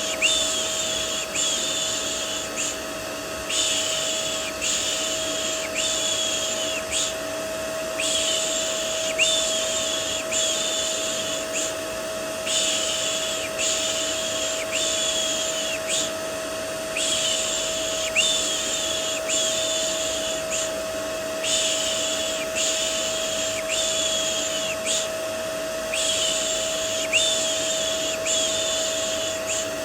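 Rhythmic 'shh' shushing for soothing a baby, repeated in runs of four or five strokes with a short pause between runs. Underneath is the steady hum of a vacuum cleaner motor used as white noise, with a constant tone running through it.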